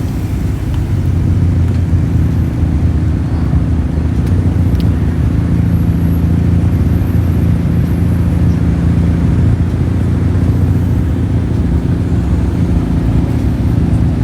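Car engine running steadily at low revs, a continuous low drone that rises slightly about a second in.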